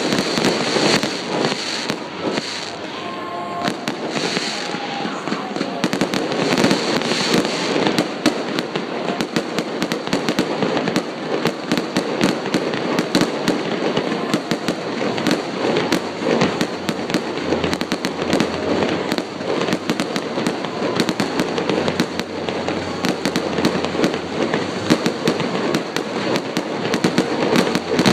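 Fireworks display: aerial shells bursting in a continuous barrage of many rapid bangs and crackles.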